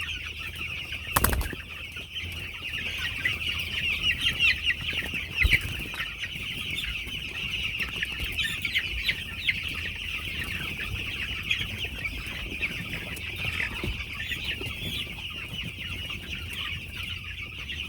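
A flock of two-week-old broiler chicks peeping continuously, many high chirps overlapping. A sharp knock sounds about a second in and another at about five and a half seconds.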